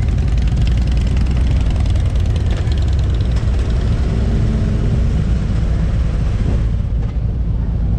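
Harley-Davidson motorcycle V-twin engine running steadily.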